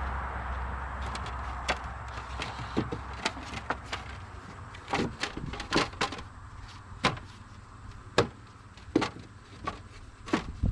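Wooden beehive frames knocking and clacking sharply and irregularly as they are set into a horizontal hive, dozens of short clicks. A passing car fades away at the start.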